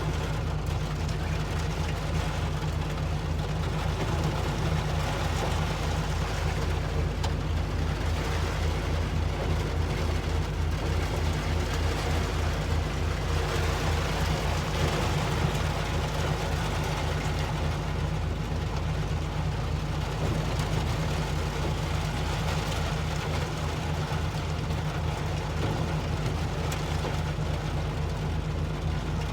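Heavy diesel engine of a work machine running steadily with a low, pulsing rumble.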